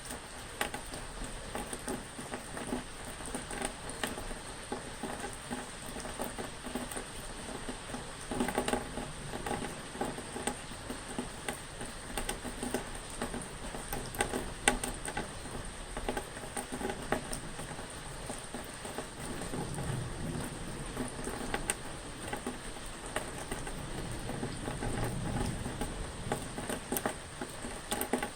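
Steady rain pattering, with many single drops ticking close by. Two low rumbles of thunder swell up in the second half.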